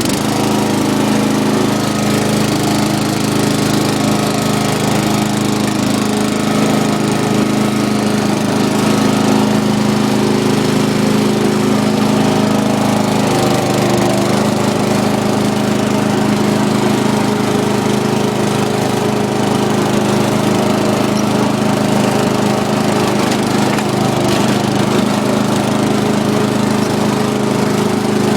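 Engine of a 12 horsepower Craftsman lawn tractor running steadily, its note shifting slightly about halfway through.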